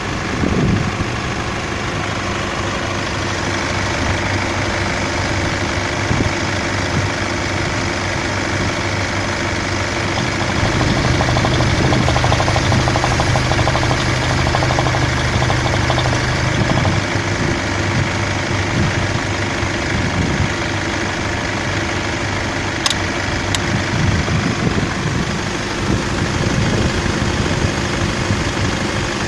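Hyundai/Kia D4CB 2.5-litre four-cylinder turbodiesel idling steadily. About a third of the way in it runs a little higher and louder for several seconds, then settles back to idle. Two short clicks come near three-quarters of the way through.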